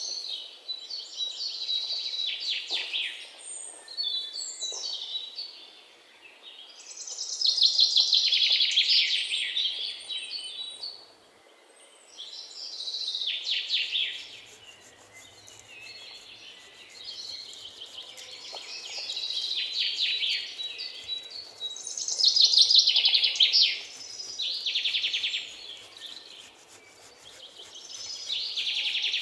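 Birds chirping and trilling in repeated bouts of rapid chirps, every few seconds.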